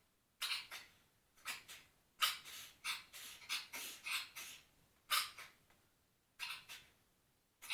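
Dog coughing in repeated fits. It gives two coughs, then two more, then a rapid run of half a dozen or so over about two seconds, then single coughs about a second apart. The cough is recurring, and the owner is worried by it.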